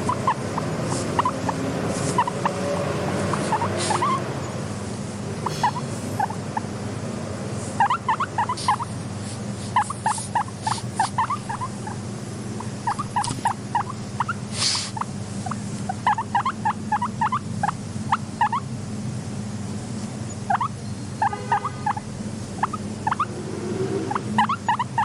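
Guinea pigs squeaking and chutting: short, sharp notes in quick runs of several at a time, over a steady low background hum.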